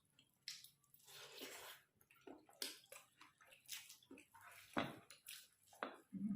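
Wet eating sounds: a person chewing and smacking on soft, saucy food, in short irregular bursts.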